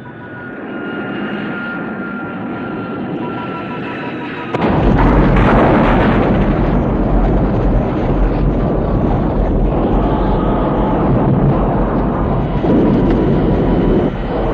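Jet aircraft engines whining on final approach with a rapid warning beep, then about four and a half seconds in a sudden loud, heavy rumbling crash as the jet lands hard on rough ground with its landing gear gone, the rumble and rattle of it sliding over the ground carrying on.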